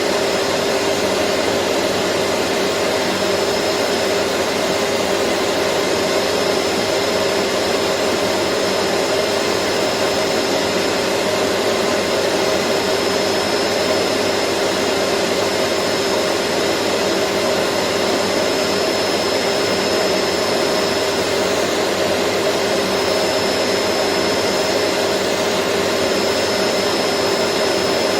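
Vacuum cleaner running steadily, a constant airy rush with a low hum and a faint high whine from the motor.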